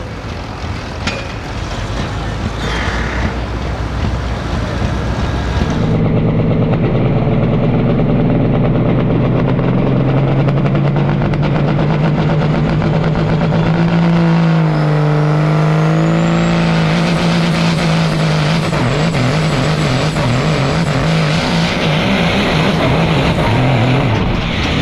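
Pulling truck's diesel engine running hard for a long stretch from about six seconds in, holding a steady high pitch that sags and then recovers partway through.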